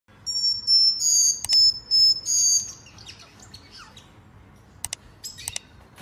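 A bird chirping: a run of loud, high, clear whistled notes broken by sharp clicks over the first three seconds, then softer scattered chirps, with a few sharp clicks near the end.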